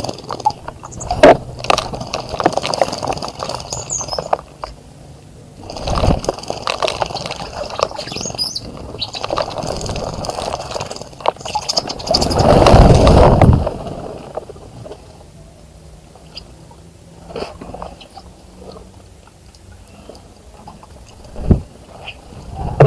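Birds splashing in a bird bath in bursts, the loudest splashing a little past halfway, then only scattered small splashes. High bird chirps sound over the earlier splashing.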